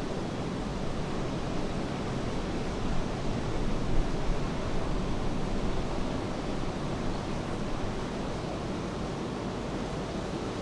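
Steady rain and ocean surf, a continuous wash of noise that swells briefly a few seconds in, as a wave breaks.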